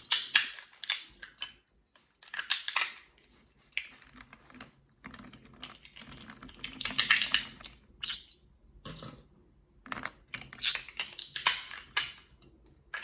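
Walnuts crunching and cracking in irregular clusters of sharp clicks, with short quiet gaps between them.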